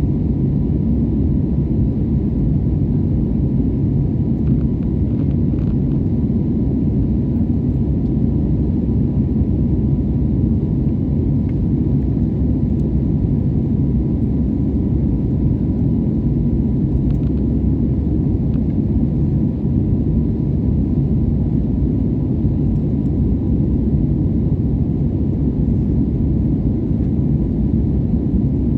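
Jet airliner's steady low rumble in flight, with a faint steady hum above it.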